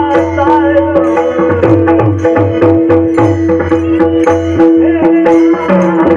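Pakhawaj drumming in a dense, steady rhythm over a held drone tone in devotional music, with no singing.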